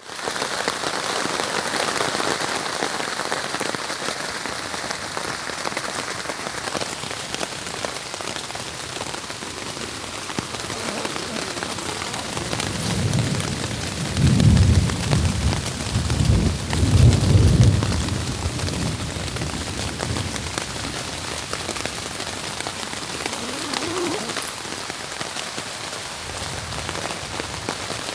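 Steady rain falling on a tent, heard from inside it. About halfway through, thunder rumbles low in several swells for around five seconds, the loudest part.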